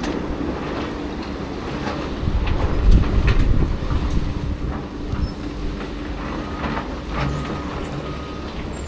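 A heavy machine running with a steady low rumble, with many short metallic clanks and knocks, a louder stretch about three seconds in, and a few brief squeaks near the end.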